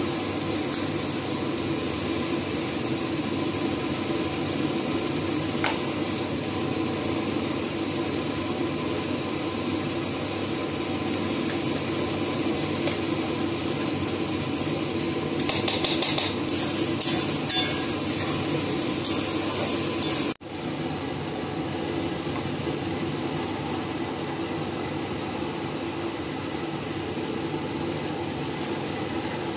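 Onion masala sizzling as it fries in a kadai, while a steel ladle stirs it and clinks and scrapes against the pan in a quick cluster a little past halfway, over a steady background hum. The sound breaks off for an instant about two-thirds of the way in, and the frying goes on.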